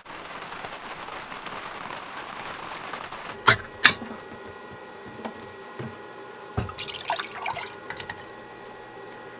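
Water running or pouring for about three seconds, then two sharp clicks, after which a steady hum starts; a few light clatters follow near the end.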